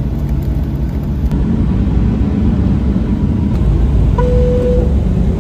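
Steady low rumble of an airliner's engines heard inside the passenger cabin before takeoff. A single steady chime tone sounds about four seconds in.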